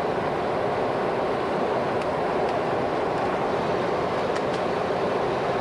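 Steady rushing noise on a Boeing 737-200's flight deck during the climb: airflow over the nose mixed with the hum of its Pratt & Whitney JT8D turbofans. There are a couple of faint ticks.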